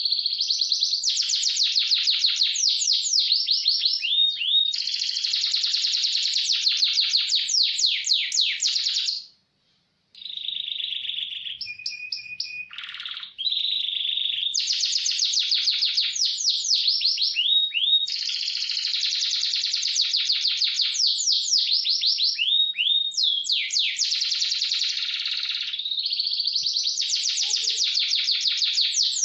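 Domestic canary singing long runs of fast, rolling trills and rapid chirps, broken by a silent gap of about a second around nine seconds in.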